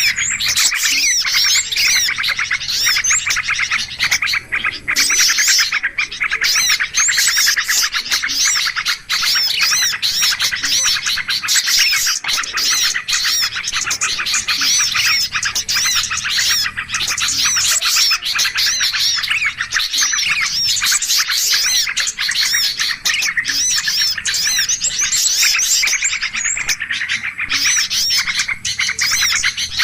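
Dense, continuous chorus of many small birds chirping and trilling over one another: a bird-lure (pikat) recording played to attract wild birds.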